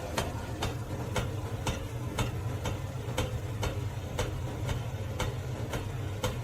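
Steady ticking, about two ticks a second, over a low steady hum.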